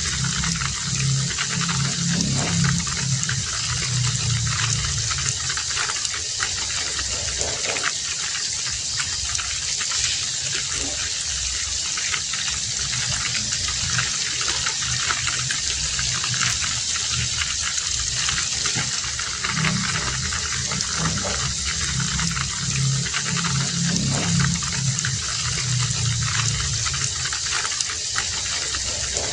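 Heavy rain falling steadily, a dense even hiss. A low hum comes in twice, for the first few seconds and again about two-thirds of the way through.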